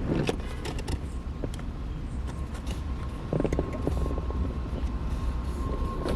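Scattered clicks and light knocks of a car's shift lever and its parts being handled and fitted, over a steady low rumble; a faint steady whine comes in about two seconds in.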